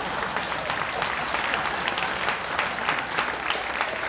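Audience applauding after a stand-up punchline: many hands clapping in a dense, steady patter.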